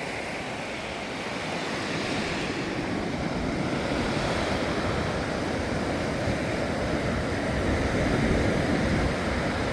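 Ocean surf washing onto a beach in a continuous rush, swelling louder from about a second in and loudest near the end.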